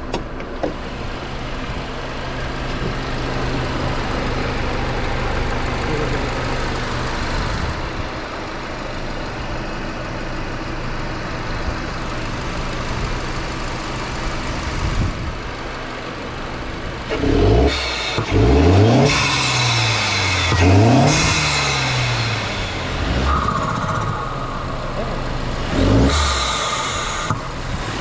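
Mercedes-Benz C250's turbocharged four-cylinder engine, fitted with a BMS open cone-filter intake, idling steadily, then revved sharply several times a little past halfway, the pitch climbing and falling with a loud intake hiss on each rev, and blipped once more near the end.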